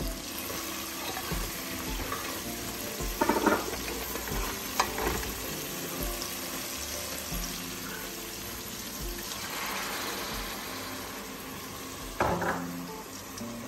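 Tomato and onion masala sizzling in oil in a metal pot while being stirred with a plastic slotted spatula, which scrapes the pan a few times: about 3 s in, near 5 s and about 12 s in.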